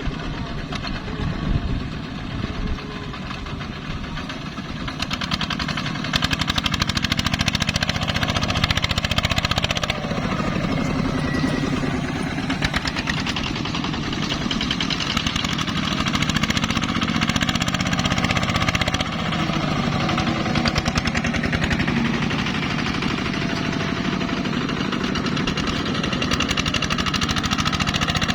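Single-cylinder diesel engine of a ZT 155 two-wheel tractor running with a steady, rapid chugging, getting louder about five seconds in.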